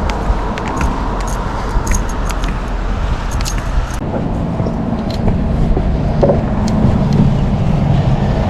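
Wind buffeting the microphone with scattered clicks. After an abrupt change about four seconds in, a car's engine and road noise hum steadily.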